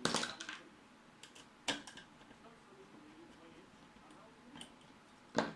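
Sharp clicks and knocks from small hard parts being handled: a quick cluster at the start, a single click about a second and a half in, and a louder one near the end.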